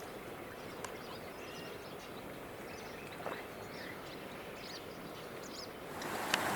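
Several birds chirping and singing in short, scattered calls over a steady outdoor hiss. About six seconds in, a louder, even rushing noise comes in abruptly.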